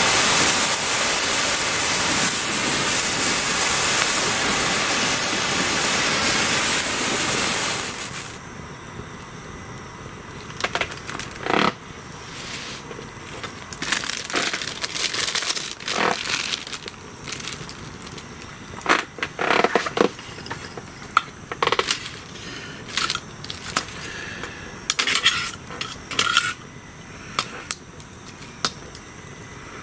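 A hand-held firework spraying with a loud, steady hiss that cuts off suddenly about eight seconds in as it burns out. After it, a wood campfire crackles with scattered sharp pops.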